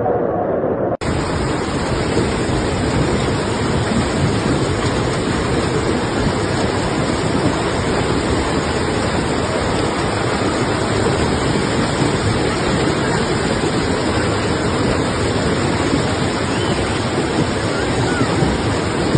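Heavy rain pouring down in a steady, dense hiss, cut off briefly about a second in.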